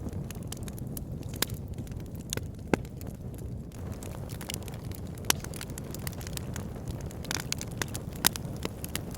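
Wood fire burning in a log burner: a steady low rumble of the flames with irregular sharp crackles and pops from the burning logs, a few standing out louder.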